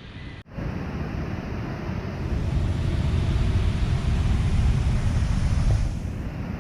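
Wind buffeting the microphone, a rough low rumble that gusts stronger through the middle and eases near the end. There is a brief dropout about half a second in.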